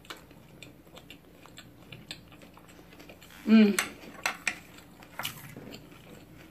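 A person chewing a rice-paper spring roll close to the microphone, with soft wet mouth clicks throughout. A short hummed "mm" comes about three and a half seconds in, then a few sharper clicks as wooden chopsticks are picked up and handled.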